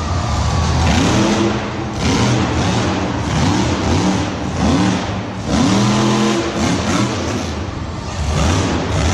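Engine revving over and over, its pitch climbing with each rev, one rev about every second or so.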